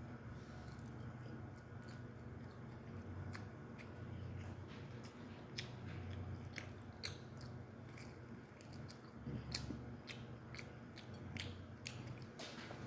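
A person biting and chewing chicken, with many scattered small clicks from the mouth.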